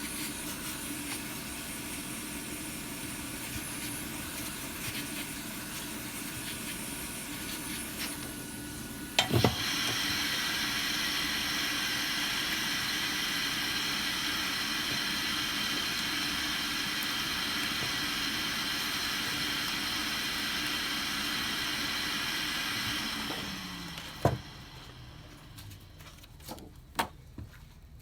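Hot air gun for phone repair blowing steadily, with a fan whine through its rushing air. It is switched up with a click about nine seconds in, after a fainter steady fan noise. Near the end the motor winds down with a falling tone, followed by a few small clicks.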